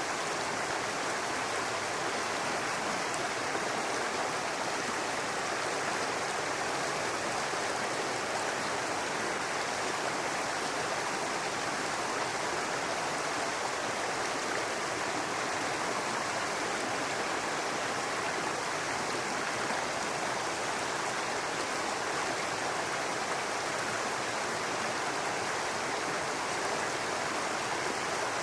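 Babbling brook: water running steadily over stones.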